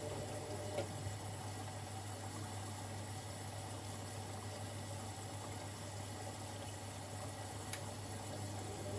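Siemens Extraklasse XLs 140 A washing machine early in a Cottons 60 °C stains cycle: water running and sloshing inside it over a steady hum, with a faint click about a second in and another near the end.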